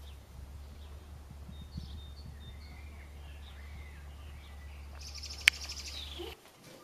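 Small birds chirping over a steady low outdoor rumble. Near the end comes a brief, rapidly pulsing high rasp with one sharp click in it, and then the rumble cuts off suddenly.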